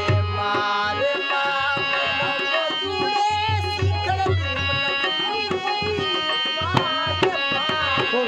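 Folk song accompaniment: a hand drum keeps a steady beat under held, reedy keyboard tones that are likely a harmonium.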